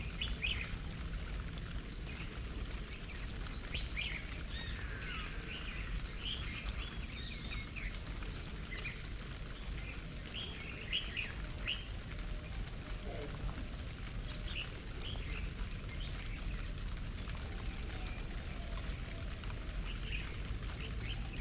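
Small garden birds chirping, short calls scattered throughout, over a steady low background rumble.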